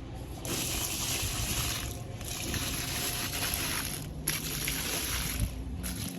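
Water spraying onto a muddy door mat in three long bursts, each starting and stopping sharply, over a steady low hum.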